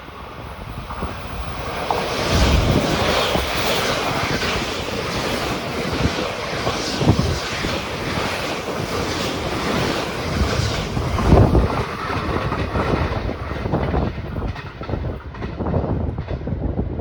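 A train running past on the rails, its passing noise building about two seconds in and staying loud, with the wheels clicking over rail joints throughout.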